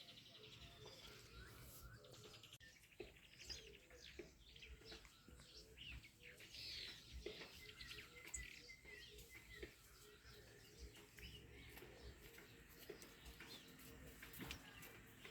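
Faint chirping of several small wild birds, many short quick notes overlapping, with a brief run of repeated notes about eight seconds in.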